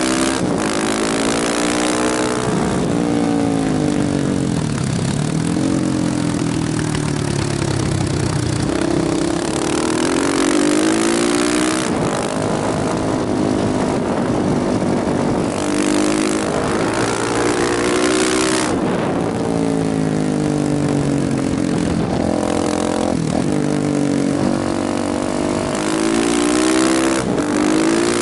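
KTM motorcycle engine under way, its pitch climbing and dropping again and again as it accelerates and shifts gears, over a steady rush of wind.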